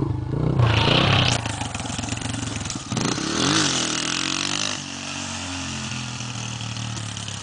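Dirt bike engine running, revving up and back down once about three and a half seconds in, then holding a steady speed.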